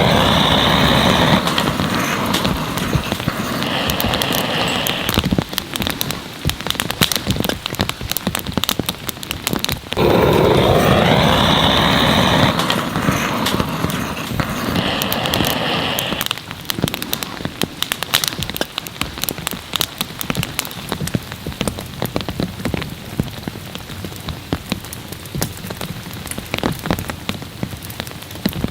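Heavy rain drumming on a camping tarp, a dense patter of drops throughout. Twice, at the start and again about ten seconds in, a louder rushing surge lasts several seconds before dropping back.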